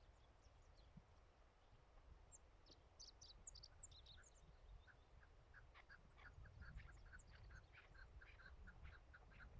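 Chukar partridge calling: a rapid run of clucks, about five a second, starting about halfway through and carrying on. A few high, short chirps come earlier.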